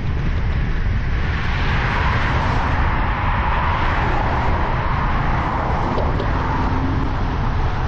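A car passing on the road, its tyre and engine noise swelling for several seconds and then fading, over a steady low rumble of wind on the microphone.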